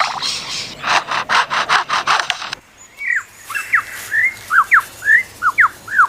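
Superb lyrebird mimicking a chainsaw at work: rapid rasping strokes, about five a second, that stop abruptly about two and a half seconds in. A run of short whistled notes sweeping up and down follows.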